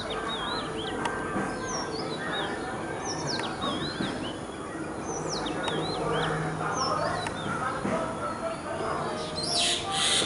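Small songbirds chirping: quick, high notes that swoop down and up in pitch, repeating every second or two over a steady background murmur. A louder, harsher burst of sound comes right at the end.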